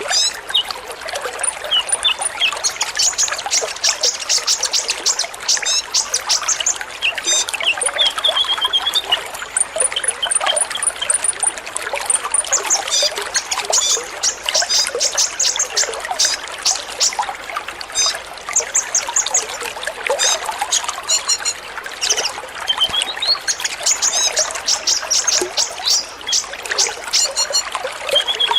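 Several sunbirds (kolibri ninja) calling together in rapid trains of high, thin chirps, over a steady trickle of running water.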